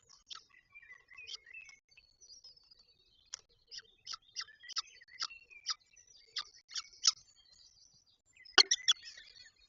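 Peregrine falcon calling at the nest: a run of short, sharp, high calls, about two or three a second, then a louder cluster of calls with a knock near the end.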